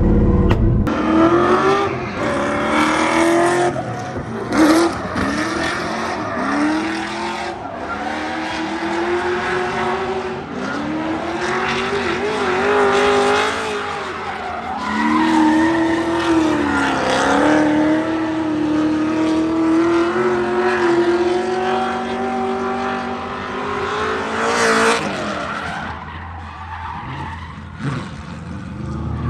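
A drift car's engine held high in the revs, its pitch rising and falling as the throttle is worked through the slides, with tyres skidding and squealing. The engine note drops away about 26 seconds in.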